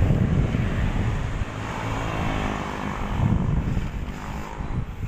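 Wind buffeting the microphone while cycling along a road, with traffic noise and a motor vehicle passing about two seconds in.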